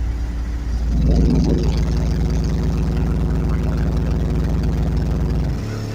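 Car audio subwoofer system playing one long, very loud, deep bass tone, a competition burp being metered at about 153.5 dB. A buzzier overtone comes in about a second in, and the tone drops and cuts off shortly before the end.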